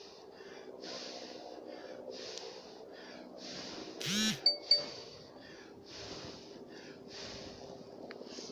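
Footsteps crunching through snow at a steady walking pace, about two steps a second with alternating stronger and weaker crunches. A short, loud sound with two sharp clicks breaks in about four seconds in.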